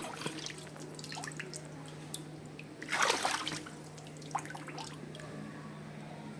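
Water splashing and dripping in short bursts, with one larger splash about three seconds in, over a steady low hum.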